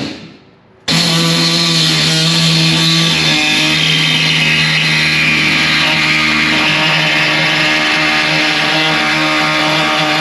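Pneumatic air body saw cutting out the shifter opening in a car floor, running loud and steady with a buzzing drone and a hiss of air. It starts about a second in and stops near the end.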